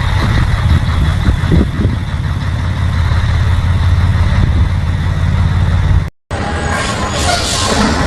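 Fiat 'Fiatão' heavy truck's diesel engine running steadily with a deep, even rumble. There is a brief cut-off about six seconds in, followed by a hissing rush near the end.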